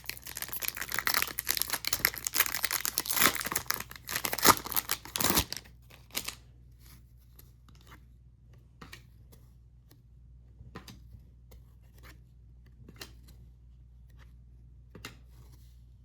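A trading card pack wrapper being ripped open, with a dense run of tearing and crinkling for about the first five seconds. After that come only faint, scattered ticks, about one a second, as the cards are handled.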